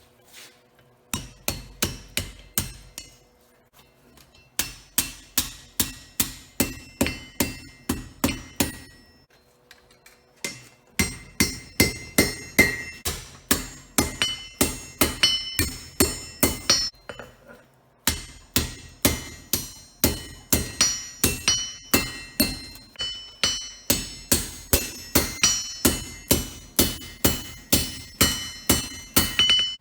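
Blacksmith's hand hammer striking hot spring steel on an anvil in steady runs of about three blows a second, with short pauses between the runs. The anvil rings after each blow.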